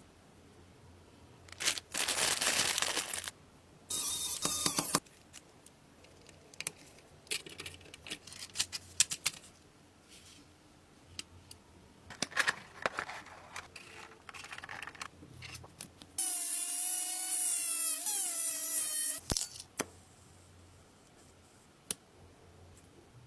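Small workshop tool sounds: two short bursts of hiss, scattered clicks and taps, then about three seconds of a small motor whining and wavering in pitch.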